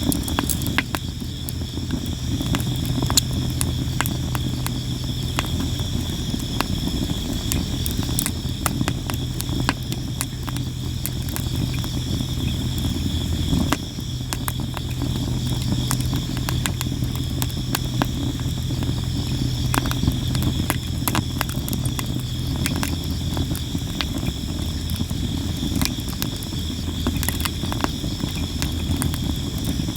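Sawara (Japanese cypress) firewood burning, crackling and popping constantly with sharp irregular snaps. Insects chirp steadily behind it, over a low steady hum.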